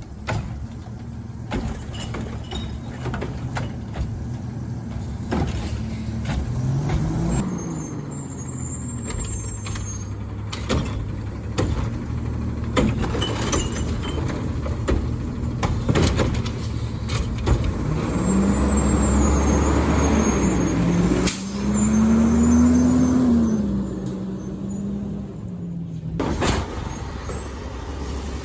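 Garbage truck's diesel engine running, revving up briefly and then again for several seconds before settling back, with scattered knocks and clanks.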